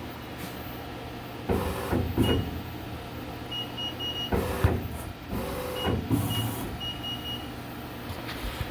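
Southwestern Industries Trak 1630 lathe running a program: a steady low machine hum, with several bursts of motor whine as the tool moves through its cycle cuts. Short high-pitched beeps come in small groups mid-way.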